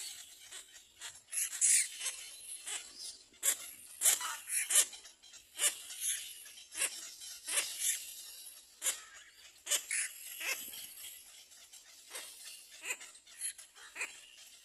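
Young birds calling: short, high squeaks and cheeps, irregular, about one or two a second.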